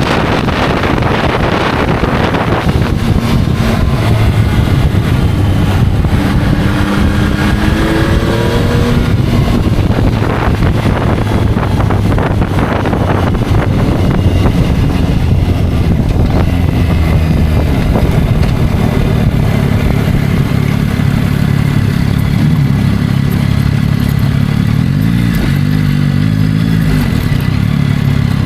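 Yamaha motorcycle engine running on the road, its revs climbing steeply about eight seconds in, then running lower and rising and falling again near the end.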